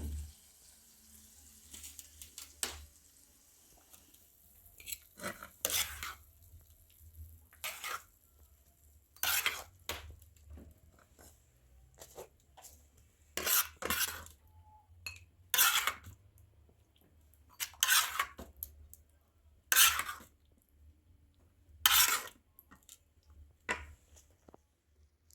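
A metal utensil scraping and clinking against a cooking pot in short strokes, about a dozen of them one to two seconds apart, with quiet gaps between.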